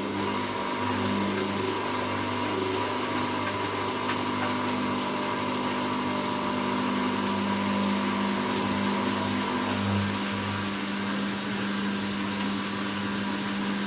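Hoover washing machine's motor and drum running at the start of its second spin, a steady hum with a low drone. To the owner it sounds like an unbalanced load.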